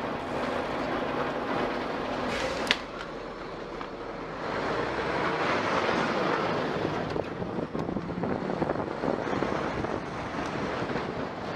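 Steady rushing vehicle noise, of the kind a dashcam picks up while driving, with a sharp click a little under three seconds in.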